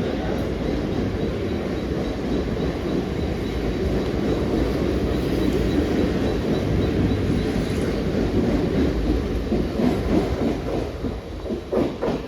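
Mumbai suburban local EMU train running along the platform, a steady rumble and rattle of wheels on track that fades about a second before the end, with a few separate wheel clacks.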